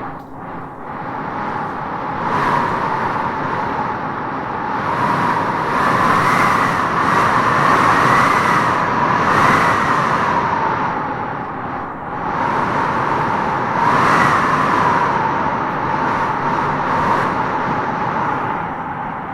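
Howling wind gusting in waves. A high, whistling howl swells from about two seconds in, peaks through the middle, dips briefly, rises again at about fourteen seconds, then eases off.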